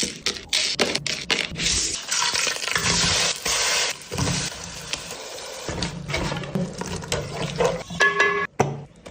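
Running water splashing, as at a kitchen sink, broken by several abrupt cuts and clicks, with a short steady tone about eight seconds in.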